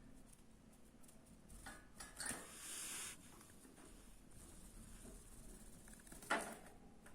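Faint rustling and light clicking, with a brief rushing noise about two and a half seconds in and a sharp click near the end.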